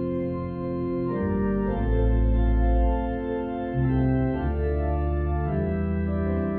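Organ playing sustained chords over a strong, moving bass line, the harmony changing about every second.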